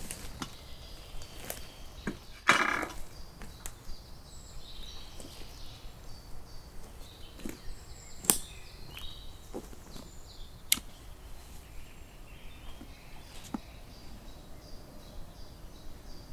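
Scattered sharp clicks and knocks outdoors, with one louder crunching rustle about two and a half seconds in, over faint birds chirping.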